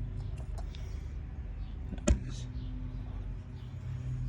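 A steady low mechanical hum, with one sharp knock about two seconds in and a few faint clicks.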